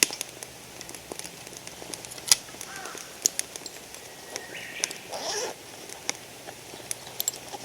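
Wood campfire crackling, with sharp pops every second or so, and a few short bird calls in the background about three and five seconds in.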